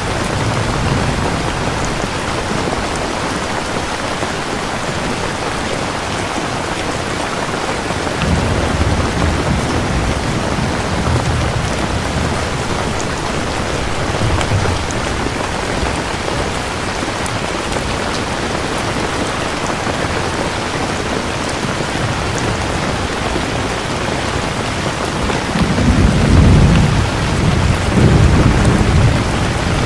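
Steady heavy rain falling on a surface, with distant thunder rumbling low, swelling in the middle and rolling louder near the end.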